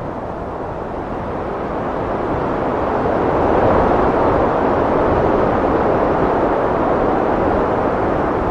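Heavy wind blowing steadily, swelling louder about three seconds in and then holding at that strength.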